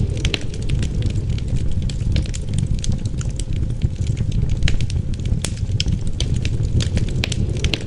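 Wood burning in a fireplace, crackling with many irregular sharp pops and snaps. Under the crackle runs a steady low rumble of wind.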